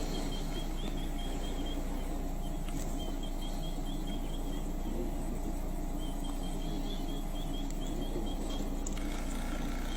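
Steady outdoor background noise with a low hum, broken by several short runs of rapid, evenly spaced high-pitched chirps, each run lasting a second or two.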